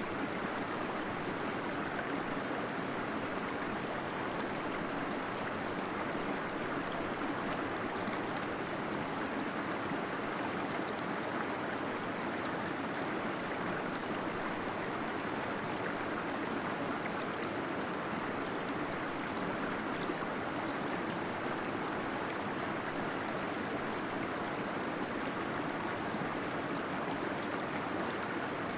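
Waterfall splashing steadily, a constant rush of water.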